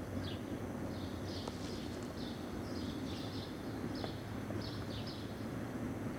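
Small birds chirping in short high calls, repeated every half second or so, over a steady low rumble of outdoor background noise.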